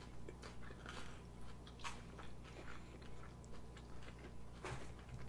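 People biting into and chewing food, a shrimp burger and chicken wings, heard faintly, with short soft crunches and clicks here and there.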